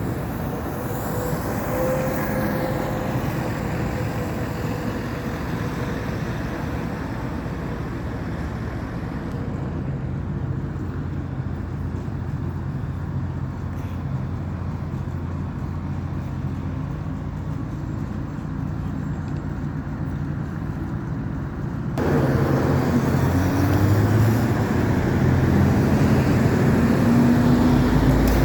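Road traffic: trucks and cars passing with a steady engine drone. About two-thirds of the way in the sound cuts abruptly to louder traffic, with an engine rising in pitch as a vehicle accelerates away.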